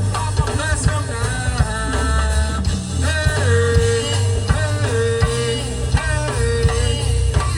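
Live gospel band playing an instrumental stretch: drums, a heavy bass line and held melody notes over a steady beat.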